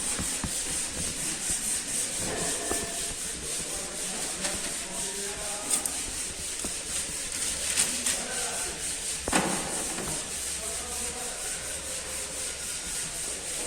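Hand rubbing or wiping over a car's body panels, a steady scratchy hiss of quick repeated strokes. A few sharp clicks stand out near the middle.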